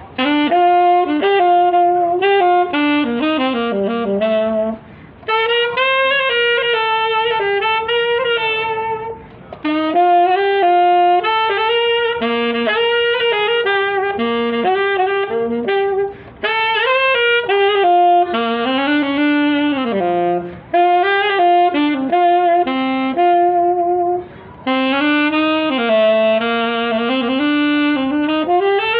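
Saxophone playing a slow, lyrical melody in long phrases, with short breath pauses between them.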